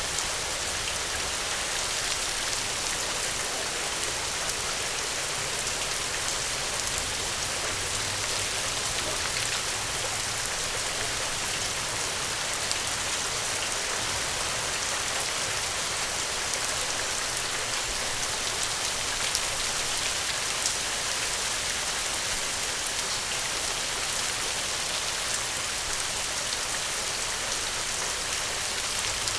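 Steady rain falling: an even, continuous hiss with scattered individual drop taps.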